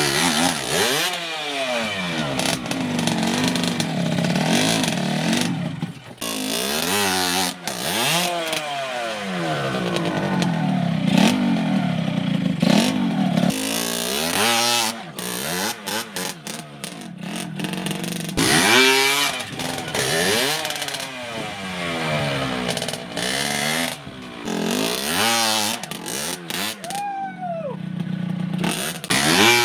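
Trials motorcycle engine revved in repeated throttle blips, its pitch rising and falling every second or two and dropping back between bursts.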